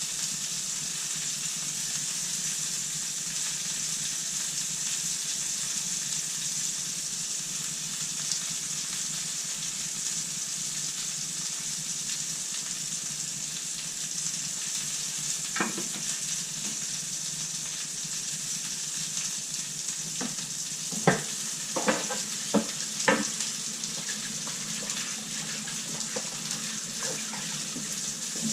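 Food sizzling steadily in a frying pan, with a few sharp knocks of a utensil against the pan about halfway through and a quick cluster of them later on.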